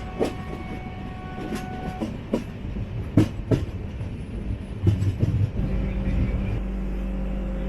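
LHB passenger coach heard from inside, its wheels knocking and clicking over rail joints as the train runs slowly. About five and a half seconds in the clicking stops and only a steady low hum remains as the train comes to a halt.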